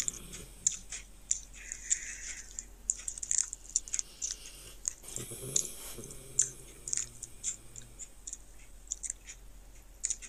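Crunchy rolled tortilla chips (Doritos Dinamita sticks) being chewed: a long run of sharp, irregular crunches.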